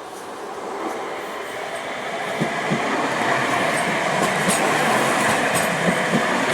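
A tram's wheels running on the rails, a rushing rumble that grows steadily louder as it approaches, with a few light clicks.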